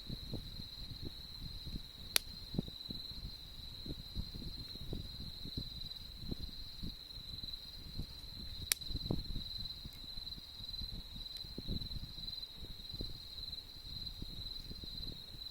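A campfire crackling, with two sharp pops of burning wood, about two seconds in and near nine seconds, under a steady high trill of autumn insects.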